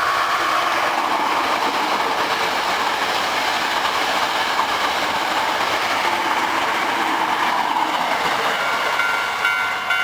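Hankyu 9300 series eight-car electric train passing at speed, a loud, steady running noise of wheels on rails. Through it the level crossing's alarm bell rings faintly, coming through more clearly near the end.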